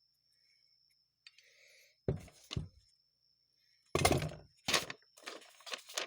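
Knocks and clatter of tools and carburetor parts being handled on a workbench: two sharp thunks about two seconds in, a louder knock around four seconds, then a run of clattering near the end.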